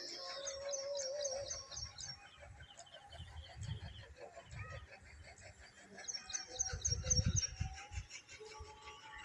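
Birds chirping outdoors, with a rapid run of short high chirps at the start and another about six seconds in. Dull low thumps come and go beneath them, loudest about seven seconds in.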